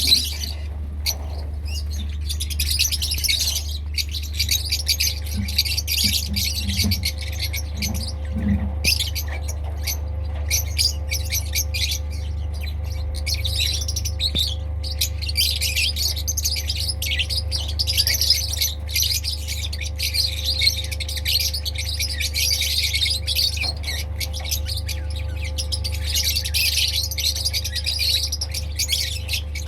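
A group of lovebirds (Agapornis) chattering and squawking continuously with shrill, overlapping calls, over a steady low hum.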